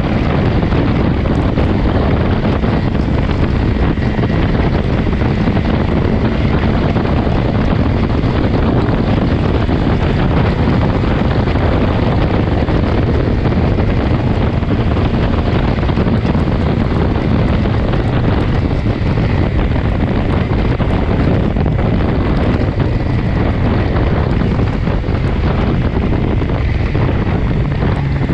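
Steady wind rush on the microphone while riding a BMW S1000XR motorcycle, with a faint steady engine note under it that drops in pitch near the end.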